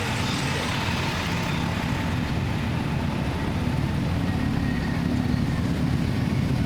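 Car engines running at low revs amid street traffic noise, a steady low rumble with no single event standing out.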